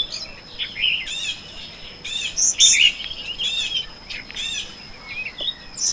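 Small songbirds chirping: many short, arched notes in quick runs, overlapping throughout.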